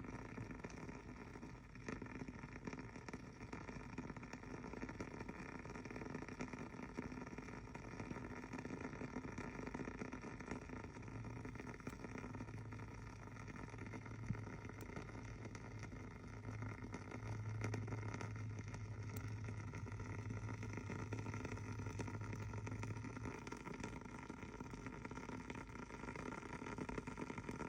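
A Kameyama bonfire-style candle burning with a faint, steady crackle of small ticks. A low hum comes in about eleven seconds in and fades out near twenty-three seconds.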